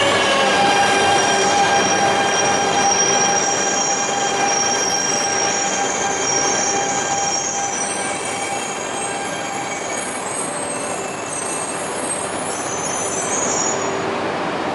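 16-car E2+E3 series Shinkansen train slowing to a halt at a platform. Its motor whine falls in pitch and fades into a steady hum, and a high-pitched wheel and brake squeal sets in and stops shortly before the end.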